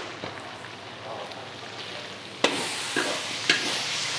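Ground chili paste sizzling in a large metal wok while a metal spatula stirs and scrapes through it. The sizzle is faint at first and grows louder about halfway through, with a few short spatula scrapes against the pan.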